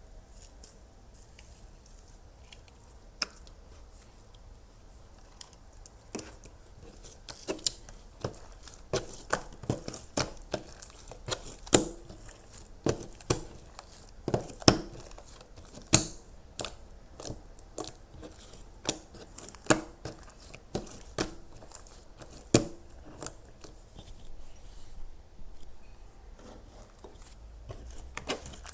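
Crisp crunching sounds, sharp and irregular at about one or two a second, starting about six seconds in, with a few faint ones before.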